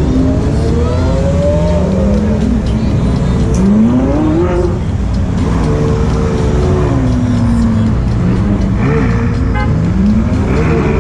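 Supercar engines revving over a steady low rumble of running engines. The pitch climbs and drops back several times as the cars rev or pass.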